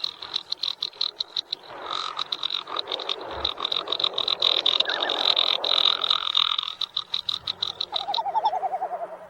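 Great frigatebirds calling in a breeding colony: a fast rattling trill throughout, with a falling warbled call near the end.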